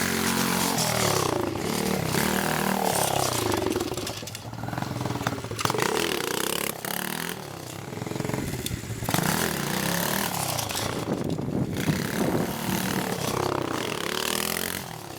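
Dirt bike engine running under way, its pitch rising and falling several times as it is revved up and throttled back.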